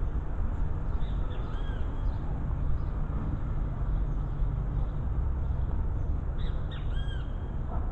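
Birds calling outdoors: short arched calls about a second in and another cluster near the end, over a steady low rumble.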